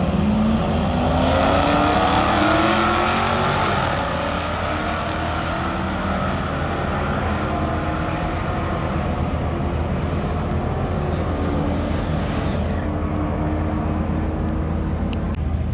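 Car engine accelerating hard, its pitch climbing and stepping through gear changes. It is loudest in the first few seconds, then runs on at a steadier pitch.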